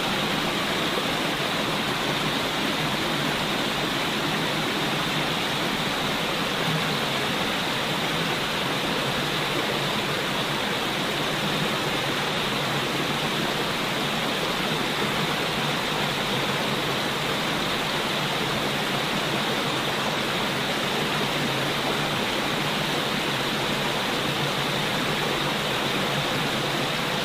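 Steady, unbroken rushing of flowing water, like a stream or waterfall, cutting in suddenly and holding an even level.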